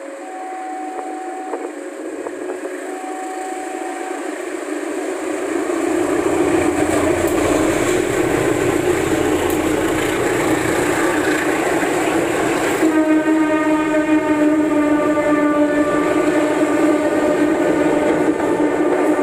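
A level-crossing warning signal alternates between two steady tones, then a diesel-hauled passenger train comes in with rising rumble and wheel clatter as its coaches pass close by. About two-thirds of the way through, a locomotive horn sounds one long blast that holds to the end over the rolling train.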